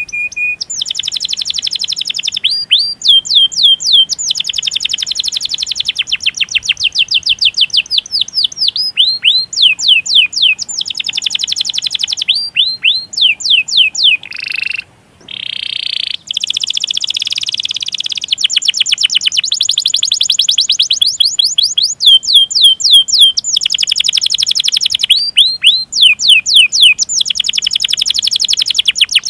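Domestic canary singing long rolls: fast runs of rapidly repeated falling notes, each run held for a second or more. There is a short break about halfway through.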